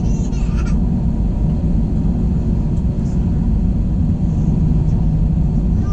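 Airbus A321 jet engines running, heard inside the passenger cabin as a steady low drone with a constant hum.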